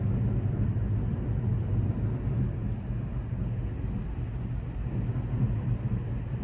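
Steady low drone of a large ship's engines and machinery, with a hum of level tones low down under a haze of noise.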